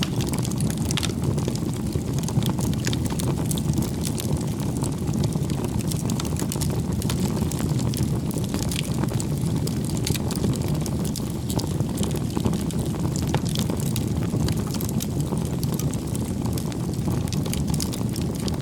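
Wood bonfire burning: many small sharp crackles and pops over a steady low rumble.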